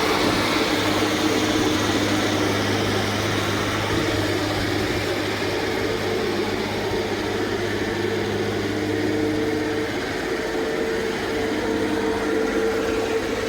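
Sierra 6000 logger baler's power unit running steadily, a continuous machine hum with no impacts.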